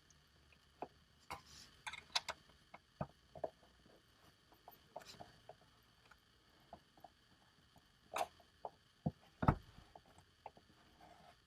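Scattered light clicks and taps of hand tools on metal as a screw is tightened into a jack nut held with pliers, with two louder knocks in the second half.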